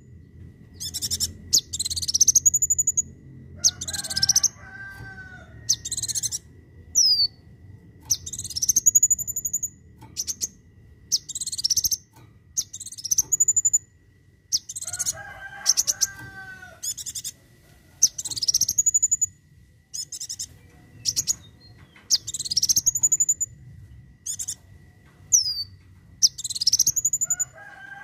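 Kolibri wulung sunbird singing its rapid, high-pitched 'tembakan' song: short rising whistle phrases repeated over and over, with quick chattering notes between them. Three times a lower warbling call from another bird joins in.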